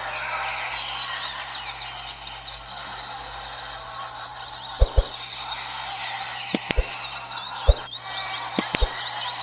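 Many double-collared seedeaters (coleiros) singing at once, a dense chorus of overlapping fast chirps and trills. A few dull low knocks sound in the second half.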